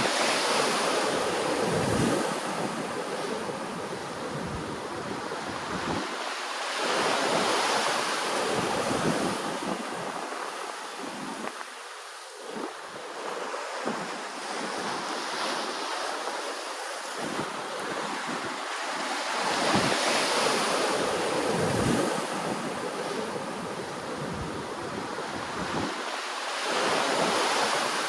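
Ocean waves washing in. The surf sound swells and fades in surges about every six or seven seconds.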